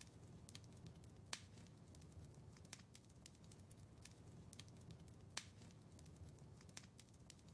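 Wood fire in a fireplace crackling: irregular sharp pops and snaps over a soft low rumble of the flames, with two louder pops about a second in and again near the end.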